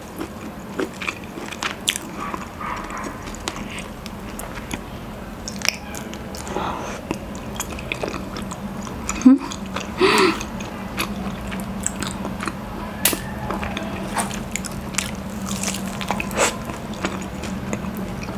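Close-miked mouth sounds of someone biting and chewing raw honeycomb: a run of short clicks and smacks, the loudest about nine seconds in. A faint steady hum runs underneath.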